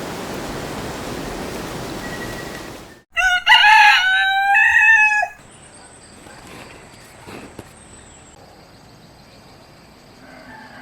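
A rooster crowing once, a loud crow of about two seconds. Before it, a steady hiss cuts off suddenly.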